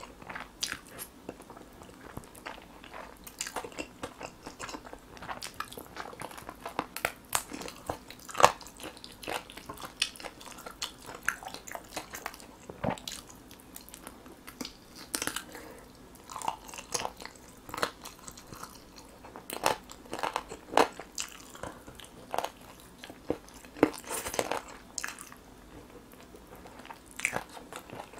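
Close-miked biting and chewing of a glazed grilled chicken leg, in irregular short, sharp clicks and crunches.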